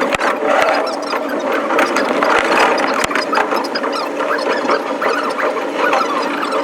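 Running noise of a JR East commuter train, sped up five times: a dense, fast, chattering clatter with high-pitched, squeal-like tones over a steady hum.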